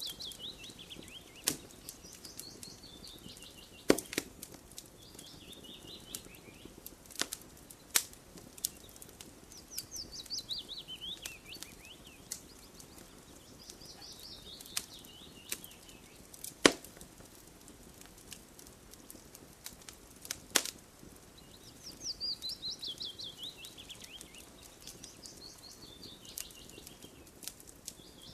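Wood campfire crackling, with sharp pops every few seconds. A songbird sings a rapid trill of high notes that falls in pitch, repeated several times.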